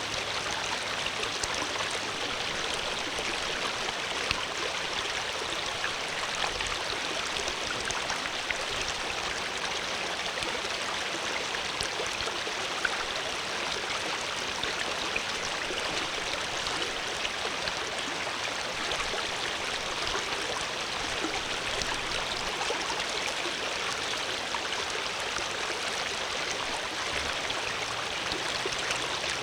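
Flowing water, a stream running steadily with fine splashing and gurgling.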